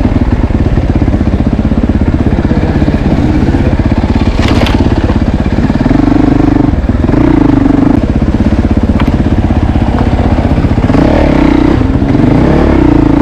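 Motorcycle engine running close by, its revs rising and falling a few times. A short sharp clatter about four and a half seconds in.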